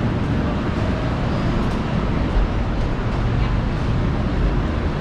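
Athens metro train running, a steady low noise heard from inside the carriage.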